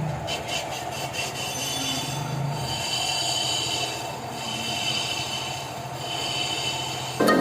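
TVS Apache RTR single-cylinder motorcycle engine running steadily, with a high-pitched scraping noise over it that swells and fades about four times: the abnormal sound the bike is being checked for. Loud electronic music cuts in at the very end.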